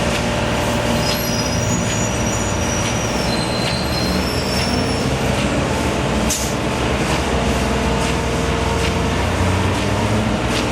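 A heavy engine runs steadily with a low hum. Short high-pitched squeals come through during the first half, and a few sharp clicks are heard.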